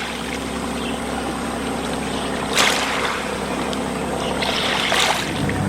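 Small boat's engine running steadily while water rushes and splashes past, with louder surges of spray about two and a half and five seconds in.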